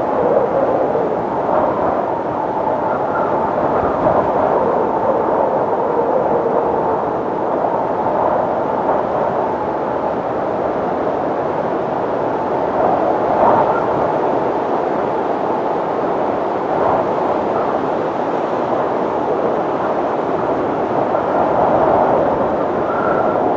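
Wind blowing steadily: a dense rushing noise that swells and eases gently, with faint, brief whistling tones now and then.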